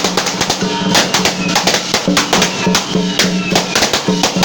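Taiwanese temple-procession percussion: drums, gongs and cymbals struck in a fast, dense rhythm, with a short low pitched note sounding again and again.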